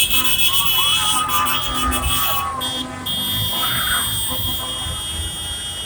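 High-pitched vehicle horns beeping in short blasts and then held for a couple of seconds, over the low rumble of passing tractor engines.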